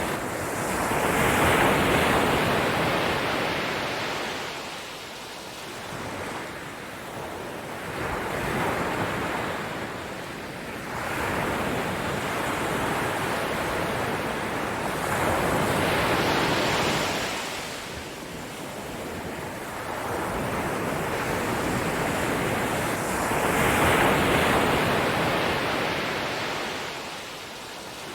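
Ocean surf: waves washing in and drawing back, the rush of water swelling and fading in slow surges every several seconds.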